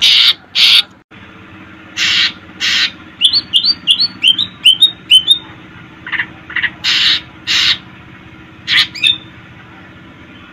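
Cucak ijo (green leafbird) calling loudly: harsh rasping calls in pairs, a quick run of about ten short chirps in the middle, then more harsh calls near the end.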